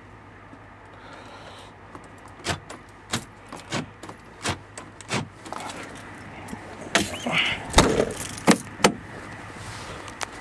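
A run of sharp clicks about two-thirds of a second apart, then a cluster of louder knocks and clatter near the end, over a low steady background hum.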